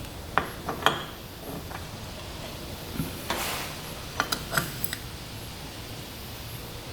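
Light metallic clicks and clinks of small engine parts and tools being handled while a piston is fitted onto a two-stroke connecting rod: two sharp clicks in the first second, a brief scraping rustle near the middle, then a quick cluster of clinks.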